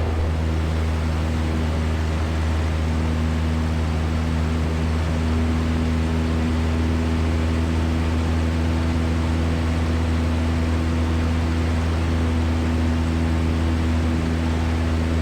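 Cessna 172's engine and propeller droning steadily in flight, heard from inside the cabin: a constant low hum with a few steady higher tones over it.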